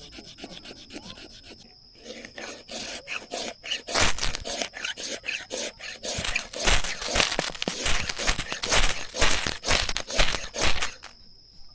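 Repeated rasping, scraping strokes of a hand tool working firewood. The strokes are quick and irregular, and grow much louder about four seconds in.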